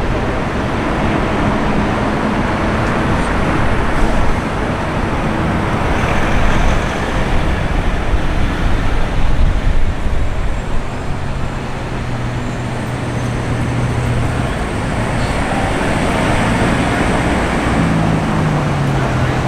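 City street traffic: the continuous noise of passing cars with engines running. An engine hum holds one pitch for a few seconds past the middle, and another rises near the end.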